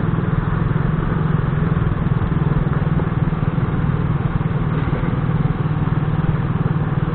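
Motorcycle engine running steadily while riding, with an even drone and no change in speed.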